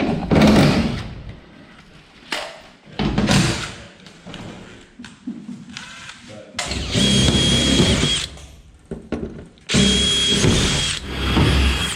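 Power drill running in two runs of about a second and a half each, with a steady high whine, and shorter bursts earlier on.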